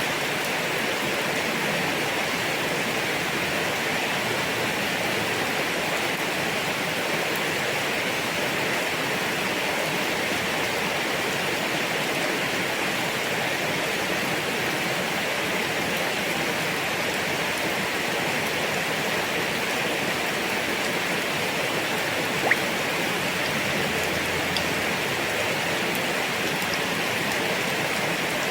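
Heavy rain falling steadily, an even dense hiss with no letup. A single sharp tick, likely a drop striking something hard, stands out about three quarters of the way through.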